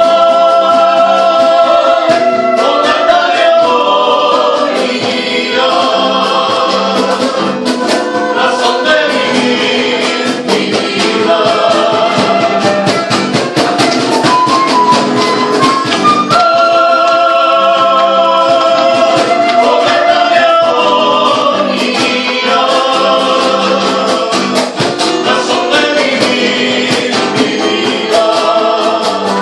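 Several voices singing a song together over instrumental accompaniment.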